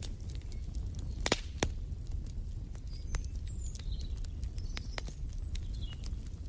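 Wood fire in a fireplace crackling, with frequent sharp pops (two louder ones about a second and a half in) over a low rumble. A few short, faint, high bird chirps come in the middle.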